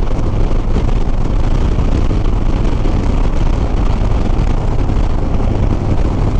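Harley-Davidson Softail Sport Glide's V-twin engine running steadily at cruising speed, with wind rushing over the microphone.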